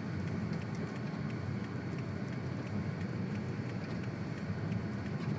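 Steady rumble of a car's engine and tyres on a snow-covered road, heard from inside the cabin, with faint scattered ticks over it.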